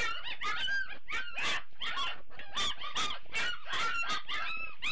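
Young Great Dane puppies whining and squealing at feeding time: a quick run of short, high-pitched, arching cries, several a second, from more than one pup.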